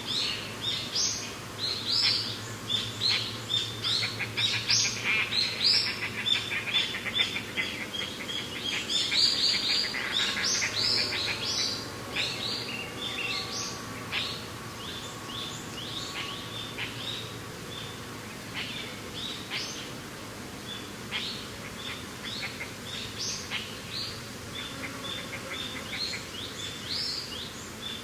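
Several songbirds chirping, a rapid run of short high calls, busiest through the first half and thinning out later, over a faint steady whoosh of mountain wind.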